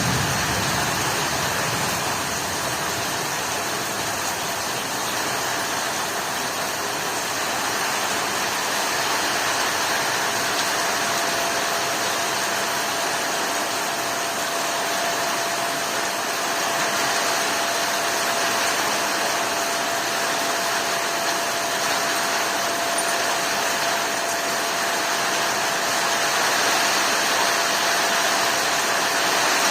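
Heavy rain falling steadily, an even unbroken hiss, with a faint steady tone underneath.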